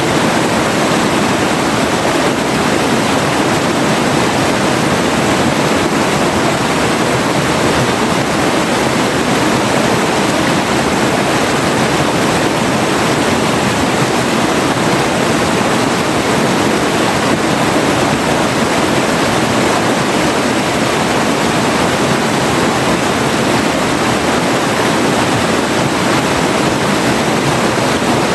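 River water flowing and rushing over rocks: a steady, loud, even rush with no breaks.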